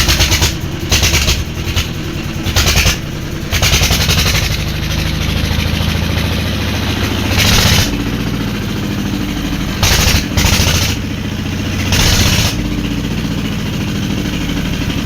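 Old diesel engine running with a fast, steady firing beat, surging louder for a moment several times.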